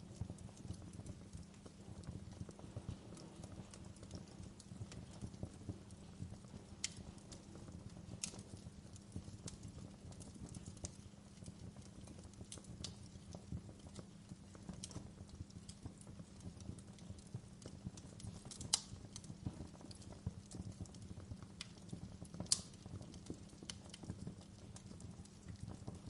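Fire in a fireplace crackling steadily: a dense run of small ticks over a low rumble, with a few sharper pops scattered through and two louder ones in the later part.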